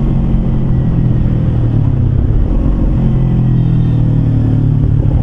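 Kawasaki Versys-X 250's parallel-twin engine running under way through a Norifumi slip-on muffler, its exhaust note mostly steady with a brief dip near the middle.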